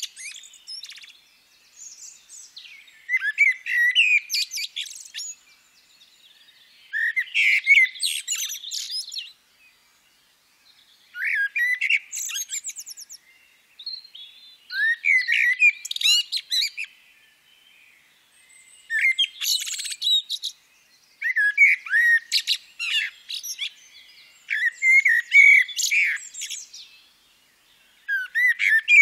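Recorded bird song: a songbird singing phrase after phrase of quick chirps and whistles, each phrase two to three seconds long, with short pauses between.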